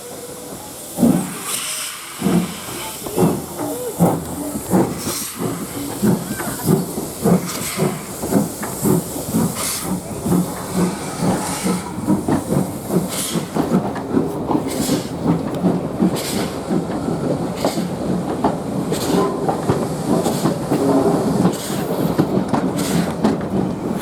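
GWR 1500 class pannier tank steam locomotive No 1501 getting a train under way: steady hiss and a rhythmic beat that quickens as it gathers speed, with the carriage wheels clattering over the rails.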